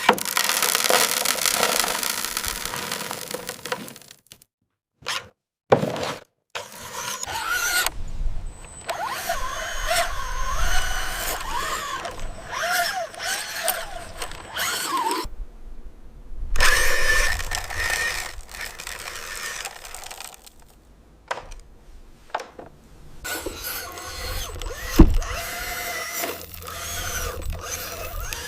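Small electric motors and gearboxes of radio-controlled construction models whining as they rise and fall in pitch, with scraping and a sharp knock near the end, broken off by several abrupt cuts.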